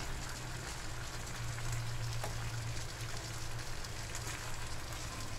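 Pork, tomato and onion sizzling in a nonstick frying pan as they are stirred: an even hiss over a steady low hum.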